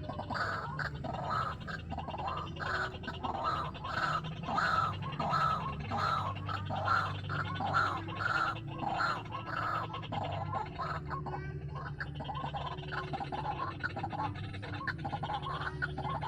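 White-breasted waterhen calls, a croaking note repeated quickly at about two a second, loudest for the first ten seconds or so and fainter after, over a steady low hum.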